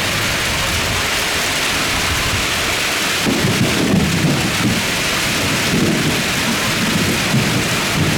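Heavy rain pouring steadily, with an uneven low rumble coming in about three seconds in.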